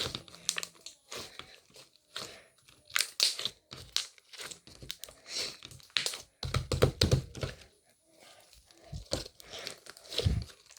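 Irregular crinkling and crackling of something being handled close up, with scattered clicks. A heavier low rustle comes about six and a half seconds in, and there is a sharp low knock near the end.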